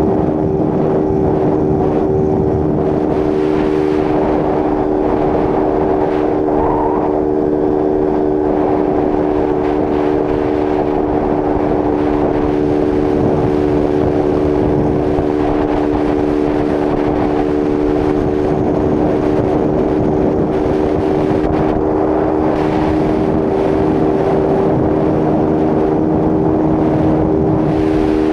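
Honda CG Start 160's single-cylinder four-stroke engine running at a steady high rev near top speed, about 135–140 km/h, with its air filter removed. Wind rushes over the microphone.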